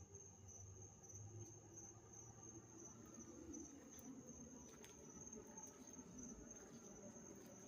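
Faint, steady high-pitched trill with low background rumble and a few faint clicks.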